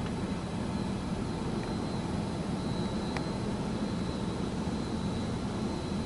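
Steady mechanical drone of an automatic touchless car wash's machinery, its pumps and overhead unit, heard from inside the car's cabin between spray passes of the rinse cycle.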